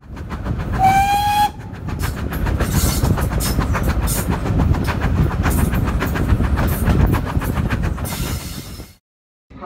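A train sounds a short horn blast, then its wheels clatter over the rail joints in a steady rhythm, before the sound cuts off abruptly near the end.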